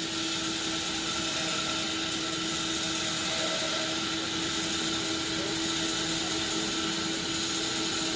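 Sawmill machinery running steadily: a constant mechanical hum with a steady tone and no change in load.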